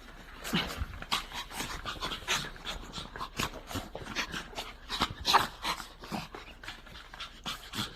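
Pet dogs panting quickly and irregularly in excitement at a greeting, with a faint whimper now and then.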